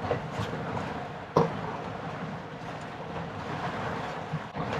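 Strong wind rushing over the microphone, with one sharp knock about a second and a half in.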